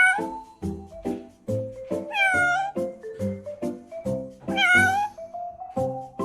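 Background music with a steady bouncy beat, over which a cat meows three times, about every two seconds.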